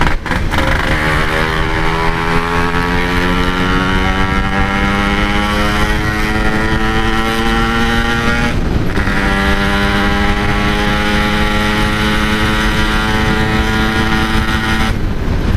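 Yamaha RX-King's 135cc two-stroke single-cylinder engine pulling under acceleration through a stock-style exhaust, the revs climbing steadily in one gear, dipping at a gear change about eight and a half seconds in, then climbing again until another shift near the end. A low wind rumble runs underneath.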